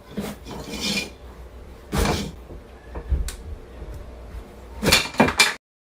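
A series of knocks and clattering thumps, like household objects being bumped or moved about, with a cluster of three sharp knocks near the end before the sound cuts off abruptly.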